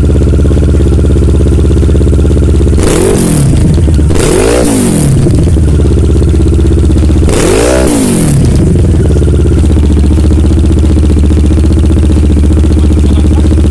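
Kawasaki ER-6n's parallel-twin engine idling through a very loud Dominator GP1 slip-on exhaust. It is revved three times, about 3, 4.5 and 8 seconds in, its pitch rising and falling back to idle each time.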